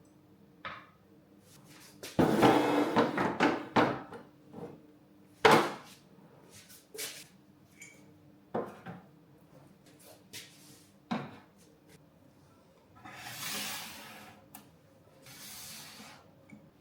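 Kitchen things being handled while cleaning: a burst of clattering knocks about two seconds in, then a sharp knock, scattered single clicks and, near the end, two stretches of soft rubbing.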